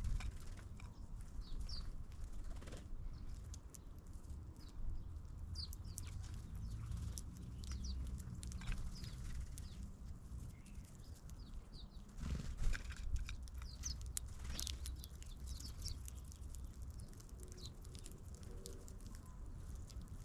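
Small birds chirping: short, high calls scattered all through, over a steady low rumble.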